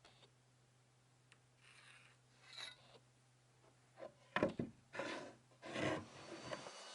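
Wood being scraped or rubbed by hand in a few irregular strokes, the loudest about four to six seconds in.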